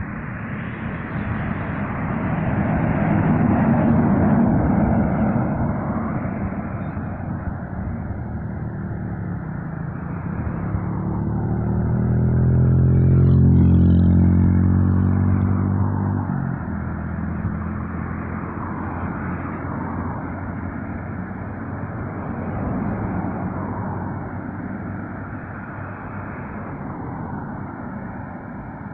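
Road traffic passing by: tyre and engine noise from one vehicle swelling and fading about four seconds in, then a heavy Mercedes Actros MP4 truck's diesel engine passing close, loudest about halfway through, its engine note rising and fading over several seconds.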